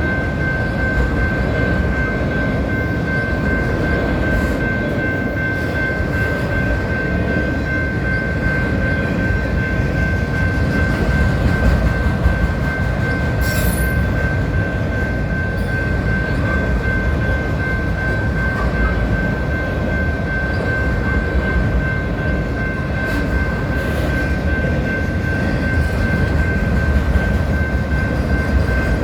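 A westbound BNSF freight train's cars rolling past in a steady, loud rumble, with a continuous high whine held throughout and a brief hiss about halfway through.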